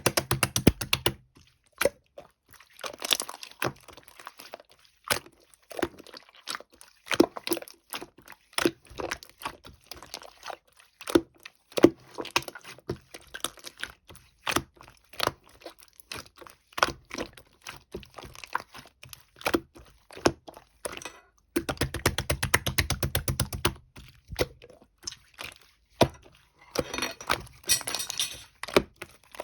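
A long run of sharp clicks and taps, with two stretches of very fast clicking, one at the start and one about two thirds of the way through, and short bursts of crinkling.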